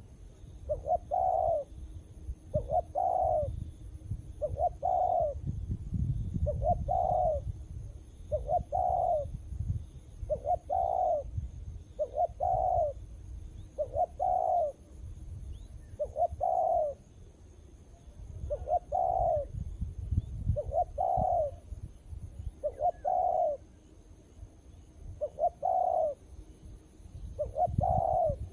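Spotted dove (tekukur) cooing, one short phrase repeated about every two seconds, with a couple of longer pauses between phrases.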